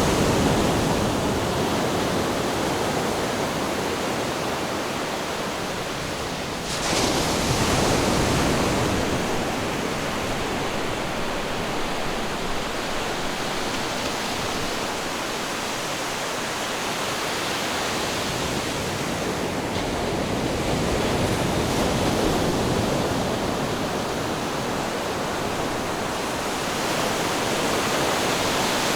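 Ocean waves breaking and washing in as a continuous rushing. One wave breaks with a sudden surge about seven seconds in, and gentler swells come later on.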